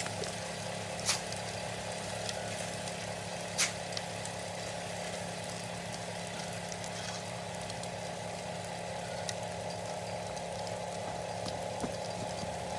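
Washing-machine motor running steadily, driving a homemade sand sieve, with two sharp clicks about one and three and a half seconds in.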